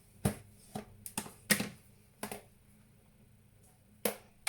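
Irregular clicks and knocks, about seven in a few seconds, from kitchen utensils and containers being handled as corn flour is added to a mixing bowl on kitchen scales.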